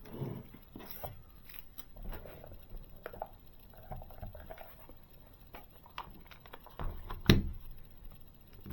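Small scratchy clicks and scrapes of a Pozidriv screwdriver driving a tiny screw into a model swingarm, with a sharper click about seven seconds in.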